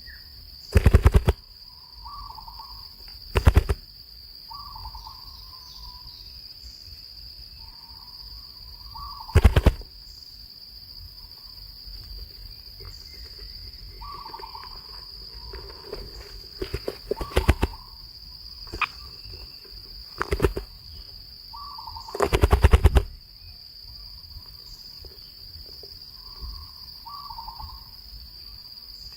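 A steady high insect drone with soft, repeated short bird calls, broken six times by loud rattling bursts lasting up to about a second.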